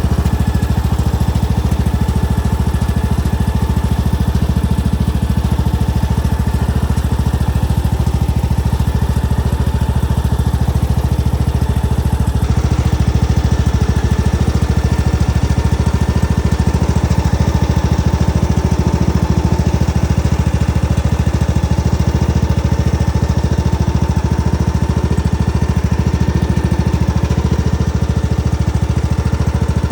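Tractor engine running steadily at a constant speed, with no revving.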